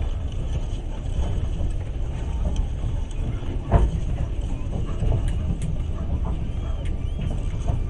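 Passenger train running on the rails, heard from inside the carriage: a steady low rumble with one sharp knock nearly four seconds in.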